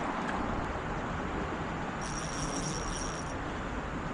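Steady rushing outdoor background noise. About two seconds in, a thin high-pitched whine sounds for just over a second.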